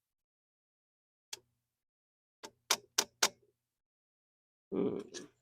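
Sharp hard taps as an ABS wheel-speed sensor is worked into its tight-fitting bore: one tap, then a quick run of four taps about a quarter second apart, and a short scuffing noise near the end.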